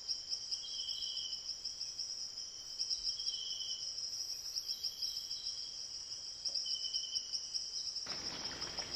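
Insects chirring steadily in a high, fast pulse, with a lower trill coming in short runs about every two seconds. A rush of noise comes up near the end.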